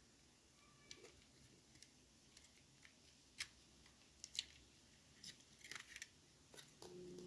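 Faint, scattered clicks and taps of a digital multimeter's small plastic parts being handled and fitted, against near silence.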